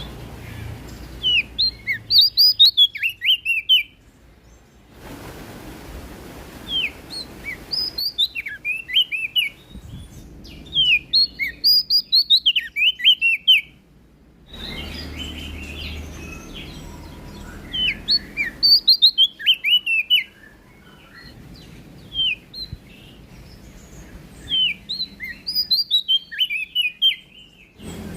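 Prenjak daun (leaf warbler) singing: bursts of quick, high chirping notes that slide up and down. Each phrase lasts two to three seconds and repeats about every five seconds.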